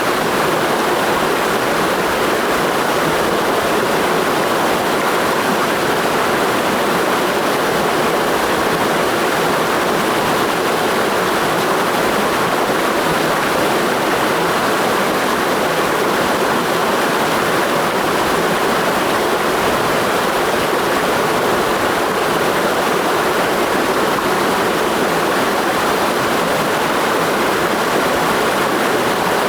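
Mountain stream rushing steadily, a loud continuous wash of flowing water with no breaks.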